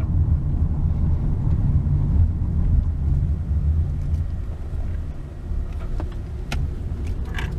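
Low, unsteady rumble, with a few faint clicks near the end.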